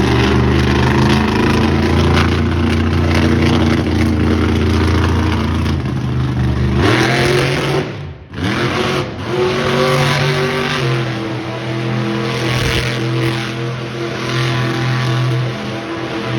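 Monster truck engine running hard under heavy throttle. About seven to eight seconds in, the revs drop briefly and climb again, and the engine keeps revving up and down after that.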